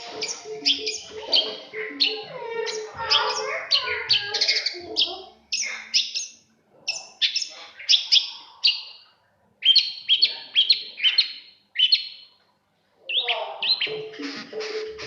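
Songbird in a cage chirping rapidly, a fast string of short, sharp, high calls with a few brief pauses. Background music with steady tones is under the calls at the start and comes back near the end.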